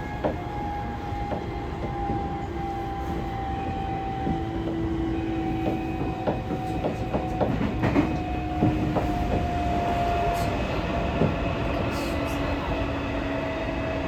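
Tokyo Metro 16000 series subway train running between stations: a steady rumble with two motor whine tones that slowly fall in pitch, and scattered clicks and clacks from the wheels on the rail.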